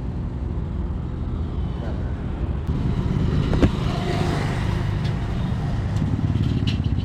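Kawasaki ZX-10R inline-four engine idling steadily, with a single sharp click about halfway through.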